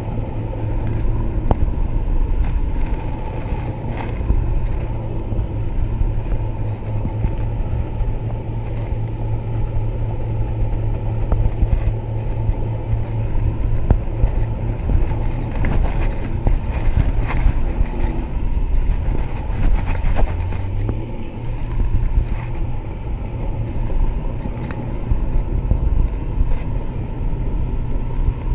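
Mako 19 Pro Skiff's outboard motor running steadily while the boat is underway; its pitch dips briefly about two-thirds of the way through, then recovers. A few sharp knocks sound over the engine.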